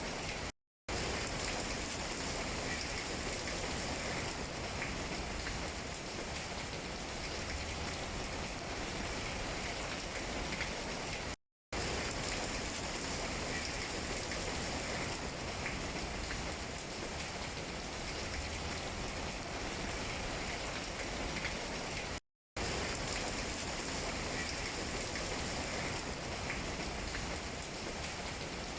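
Steady rain pattering on tree leaves, an even hiss with scattered drop taps. It cuts out to silence for a fraction of a second three times, about every eleven seconds.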